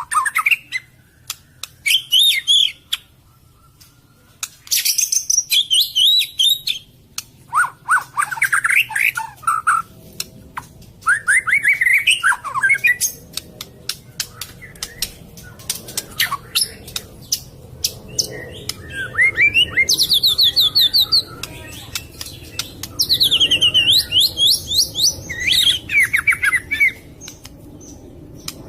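White-rumped shama (murai batu) song of the kind played as a lure call: bursts of rapid whistled and trilled phrases, some rising and some falling, broken by short pauses, with many sharp clicks between them.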